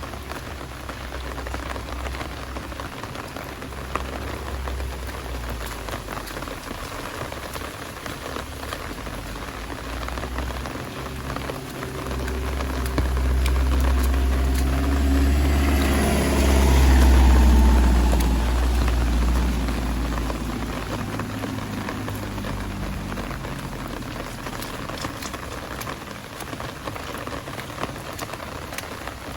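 Steady heavy rain with many close drop hits. From about twelve seconds in, a motor vehicle approaches and passes, its engine and wet-road hiss loudest a little past halfway, then fading away.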